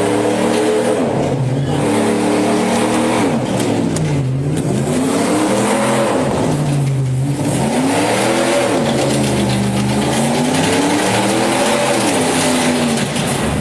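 Truck engine revving, its pitch climbing and falling again and again in long swells, dropping lowest twice.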